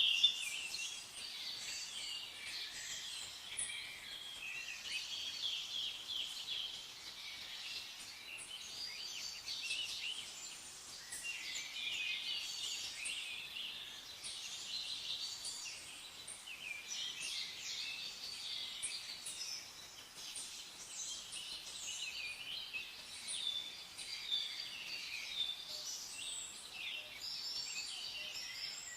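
Many birds chirping and singing at once: a dense, continuous mix of short high calls and trills, with one louder call right at the start.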